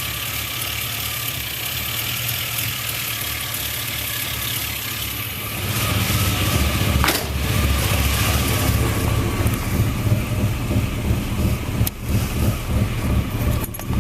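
Chevrolet Cavalier engine idling steadily after a cold start. Its low rumble grows louder about five and a half seconds in.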